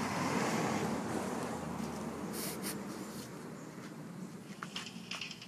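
Rustling and shuffling of bags and belongings being handled while packing, with a brief sharper hiss of crinkling about halfway through.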